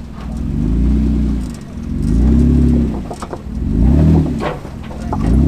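Off-road Jeep Wrangler engine revved hard again and again, its pitch rising and falling about every second and a half as it is pushed up a rock climb. A few sharp knocks come in the middle.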